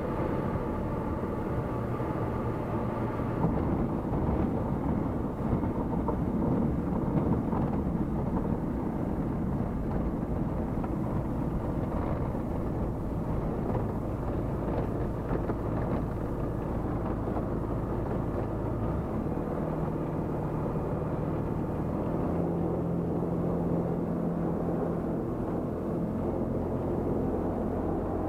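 Tecnam P96 Golf light aircraft's Rotax 912 four-cylinder engine and propeller running steadily, with the engine note shifting about two-thirds of the way through.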